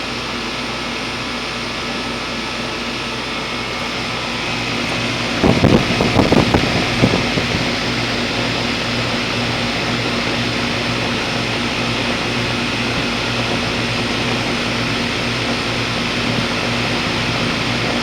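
Outdoor unit of a 2004 Goodman 10 SEER 3.5-ton heat pump running, a steady hum over an even fan whoosh; it sounds like it is running fine even though its coil is frozen over. A brief louder rumbling disturbance about five and a half seconds in.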